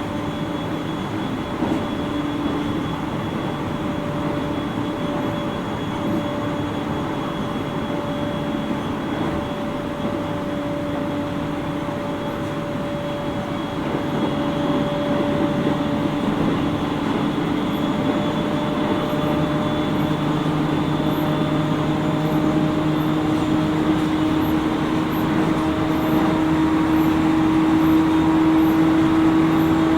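JR East 701 series electric train heard from inside the motor car: steady running noise of wheels on rail with a humming tone from the traction motors. About halfway through it grows louder and the hum climbs slowly in pitch as the train gathers speed.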